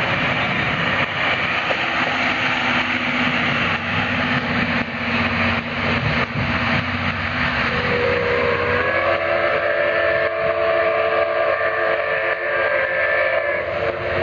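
Steam train running past with a loud, steady rolling rumble. About eight seconds in, a multi-toned steam whistle sounds, holding a chord of several steady pitches until near the end.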